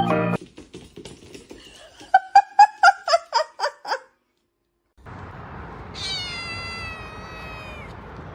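A cat meowing: a quick run of about nine short, loud calls, then after a pause one longer call that slowly falls in pitch over a steady background hiss.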